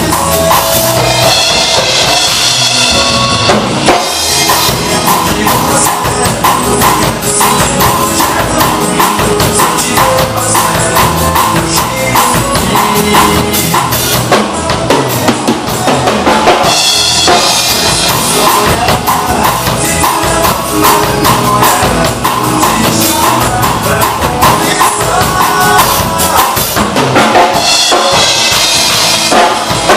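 Drum kit played along to a recorded song, a steady beat of bass drum and snare under the full backing track.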